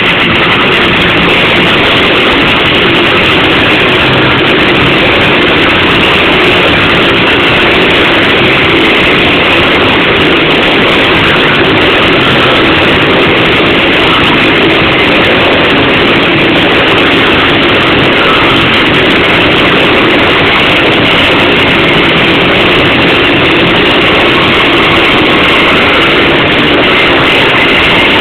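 Five motorcycle engines running and revving together inside a steel globe of death, a loud, steady, unbroken din.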